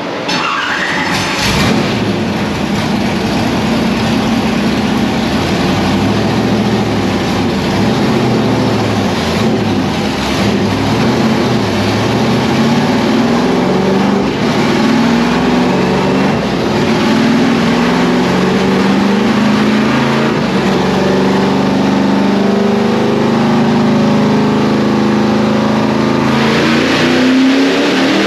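Chevy small-block V8 of a Lola T70 race car running hard on a chassis dyno. The revs rise and fall several times, then climb more steadily through a long pull in the second half.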